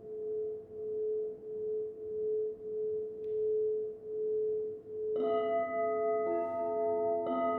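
Crystal singing bowl sounding one steady tone that swells and fades in a slow, regular pulse. About five seconds in, more crystal bowls are struck and ring on in higher and lower tones, with further strikes near the end.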